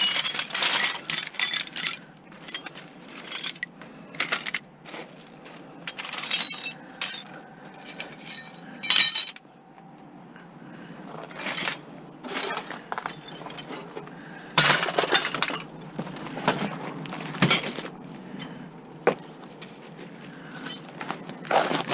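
Small hard objects clinking and clattering in irregular bursts as they are handled and set down, with a couple of heavier knocks about two-thirds of the way in.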